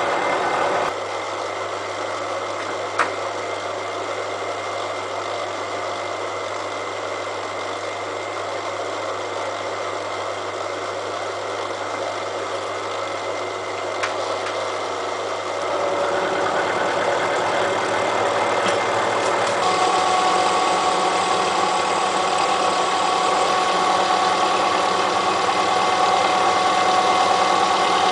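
A milling machine running with its cutter cutting steel, taking a cleanup pass across the face of a railway-rail anvil. The sound grows louder about halfway through, and a steady high ringing tone comes in about two-thirds of the way through and holds.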